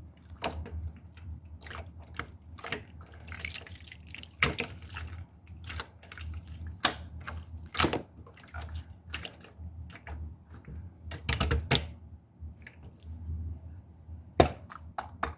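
Pink pearl slime being squished and poked by hand, making irregular sharp clicks and pops, the loudest near the middle and near the end.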